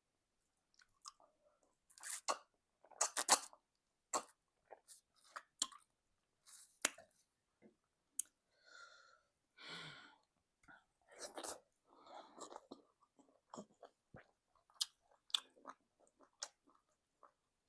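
Close-miked mouth sounds of egusi soup and semolina being eaten: wet chewing and lip smacks in irregular bursts.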